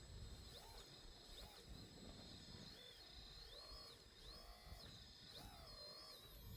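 Faint whine of a radio-controlled model's electric motor, repeatedly rising and falling in pitch as it works, over a low rumble.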